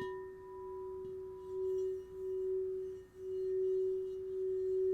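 Singing bowl struck once, then ringing on in a steady, sustained tone whose loudness swells and dips in slow waves; its higher overtones fade within the first couple of seconds.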